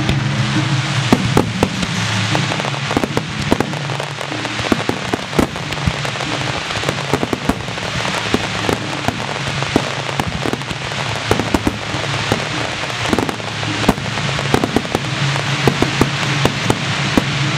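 Fireworks barrage: many shells and low volleys bursting in rapid, overlapping bangs over a continuous crackle.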